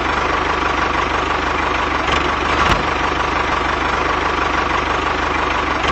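Tractor engine running steadily: a fast low chugging with a steady whine above it and one short knock about two and a half seconds in.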